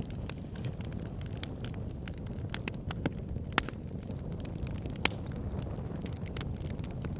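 Wood fire burning in a fireplace: a steady low rumble of flames under frequent small crackles and snaps from the logs, with two louder pops near the middle.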